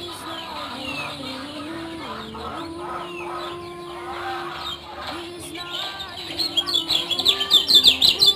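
Kecial kuning singing a varied run of short, sweet whistled notes. Near the end it breaks into a loud, rapid string of chirps, several a second.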